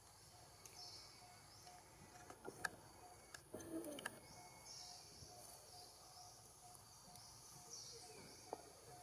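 Near silence: faint outdoor ambience with birds calling repeatedly in the background, a few soft clicks, and a short lower sound about four seconds in.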